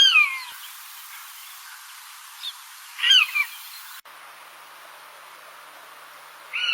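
A bird calling three times, each call a short cry sliding downward in pitch, about three seconds apart, over a steady hiss.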